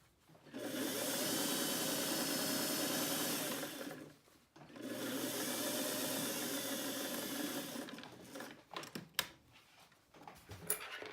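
Sewing machine stitching a pant hem in two steady runs of about three seconds each, with a brief pause between them, then stopping. A few light clicks and knocks follow near the end.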